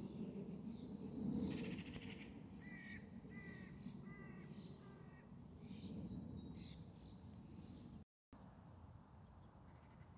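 Wild birds calling and chirping: short high chirps throughout and a run of short, harsh, crow-like calls about three to five seconds in, over faint outdoor background noise.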